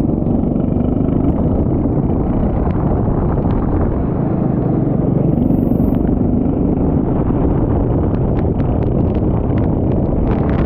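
Kart engine running at speed on a wet track, its pitch rising and falling slightly, under heavy rushing noise. A scatter of sharp ticks comes near the end.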